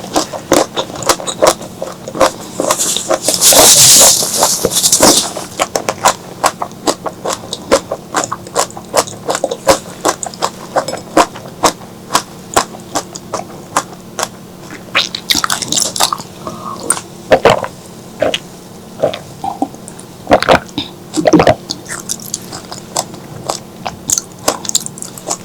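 Close-miked wet chewing and mouth sounds of a person eating spicy squid and okra curry: many quick smacks and clicks, with a louder hissing, slurp-like stretch about three seconds in.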